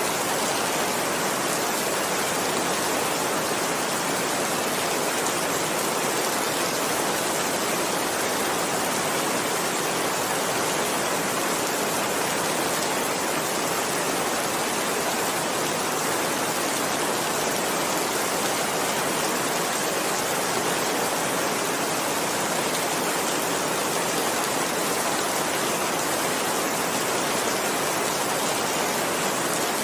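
Steady heavy rain falling, an even unbroken hiss with no separate drops or thunder standing out.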